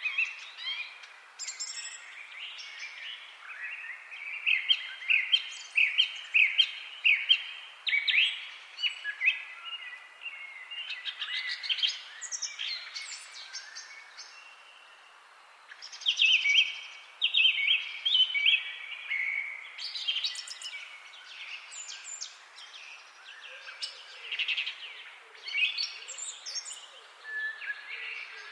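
Several songbirds chirping and singing over one another in quick high chirps and trills, with a short lull about halfway through.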